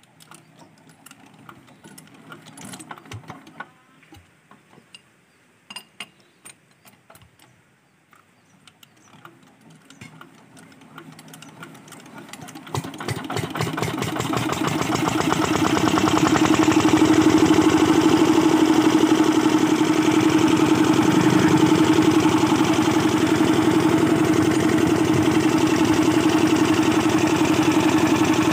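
Old 5 hp diesel generator engine: scattered clicks and knocks at first, then the engine catches a little under halfway through. Its firing quickens over a few seconds, and it settles into a loud, steady run.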